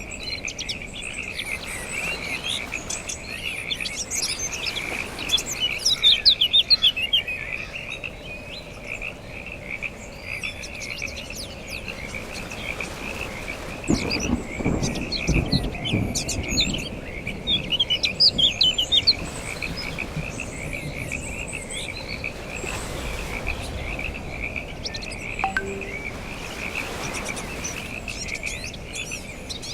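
A steady chorus of calling frogs, with scattered bird chirps above it and a low rumble about halfway through.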